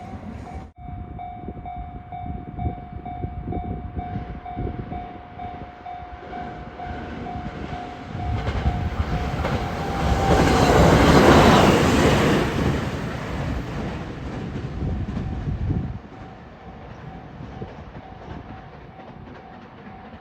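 Level crossing warning bell ringing in a steady repeating ding while a 521 series electric train passes through the crossing: the train's rumble and wheel clatter build to a loud peak about eleven seconds in, then fade, with the bell still ringing.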